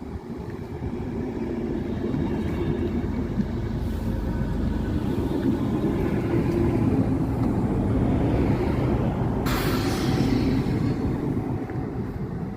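Krösatåg X11 electric multiple unit pulling into a station: a steady low rumble of wheels and running gear that builds at the start and eases near the end as it slows. A sudden hiss breaks in about three-quarters of the way through and fades over about a second.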